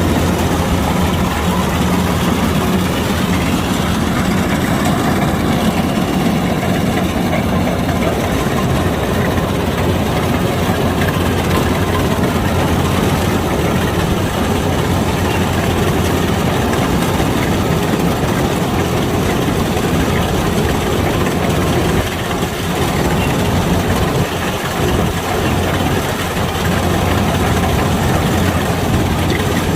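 Kubota DC-105X combine harvester's diesel engine running steadily, dipping briefly in level about three-quarters of the way through.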